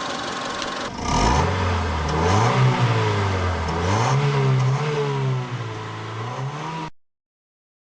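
Honda Civic 1.6 VTEC four-cylinder engine with stock exhaust, heard from inside the cabin, accelerating hard: about a second in the revs climb from idle, dip twice as gears are changed, then hold steady. The sound cuts off suddenly near the end.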